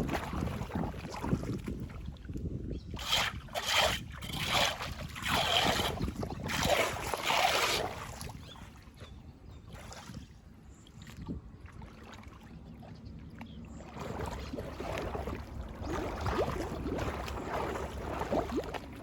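Floodwater splashing and draining through a drain grate, with a run of louder splashes in the first half and a low wind rumble on the microphone.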